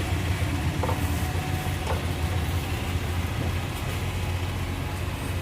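Royal Enfield Bullet's single-cylinder engine running steadily, with a couple of faint clicks about one and two seconds in.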